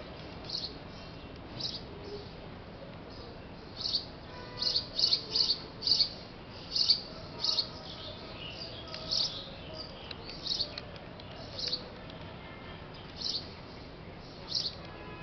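Small birds chirping: short, high chirps repeated irregularly, coming thick and fast through the middle stretch and sparser at the start and end.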